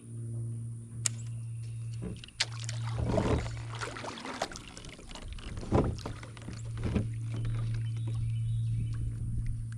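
Kayak paddle strokes dipping and splashing in river water, uneven and several in number, the biggest splashes about three and six seconds in, over a steady low hum.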